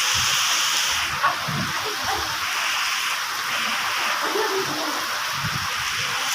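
Heavy rain falling in a steady hiss, with a few faint low sounds underneath.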